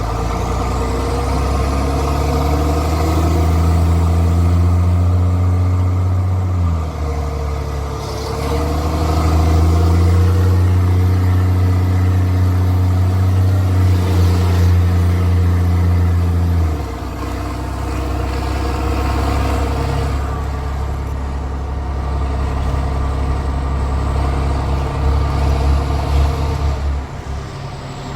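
Straight-piped Cummins C8.3 diesel in a school bus pulling hard with a loud, throaty exhaust. There is a brief dip about a third of the way in, then the engine eases off to a steadier, quieter run just past the middle.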